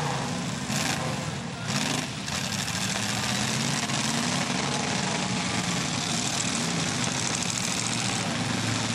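Several demolition derby cars' engines running together on a dirt arena, rising and falling in pitch as they rev.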